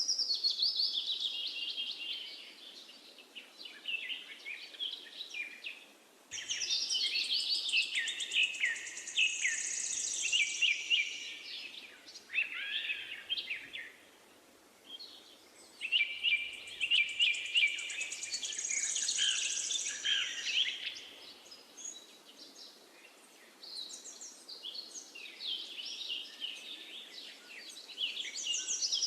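Several songbirds singing and chirping in bursts of rapid, high trills and chirps, with short quiet gaps, over a faint steady hiss.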